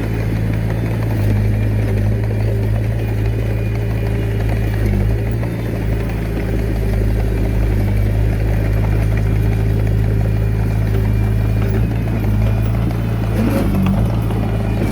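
Diesel engine of a Komatsu D21A mini bulldozer running steadily at working speed, with brief changes in its note about five seconds in and near the end.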